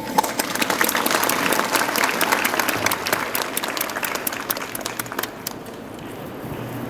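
Audience applauding, a dense patter of hand claps that thins out and dies away after about five seconds.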